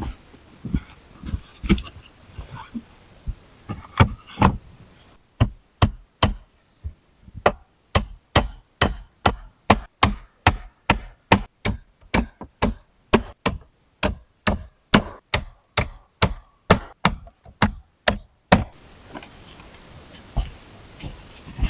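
Rapid, evenly spaced sharp strikes of a hand tool, about two to three a second for some thirteen seconds, after a few scattered knocks in the first seconds.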